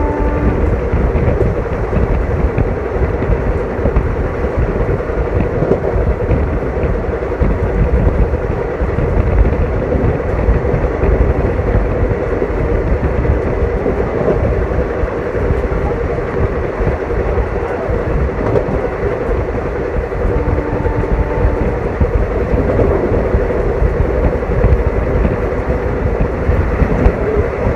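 Passenger train running at speed: a steady, loud rumble of wheels on rails and carriage noise. A short faint tone sounds once about twenty seconds in.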